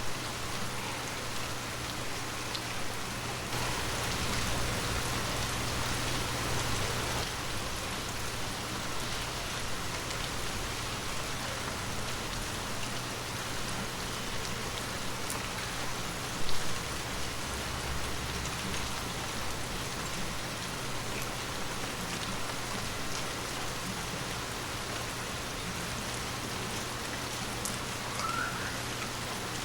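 Heavy rain falling steadily, an even hiss of many drops, over a steady low hum. One brief louder hit stands out about halfway through.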